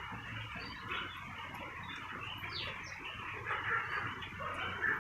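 Birds chirping in short, scattered calls, some sliding in pitch, over a steady hiss of outdoor background noise.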